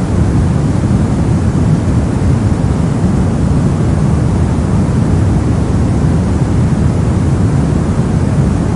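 Brown noise: a steady, unchanging random hiss with most of its energy in the low end, a deep rumble without any tones or events.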